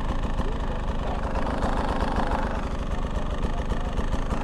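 Two-stroke dirt bike engine running steadily at low revs, its firing pulses even with no revving.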